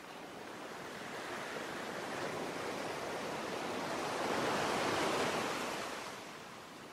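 Ocean surf: one wave building, breaking loudest about four to five seconds in, then washing back and fading.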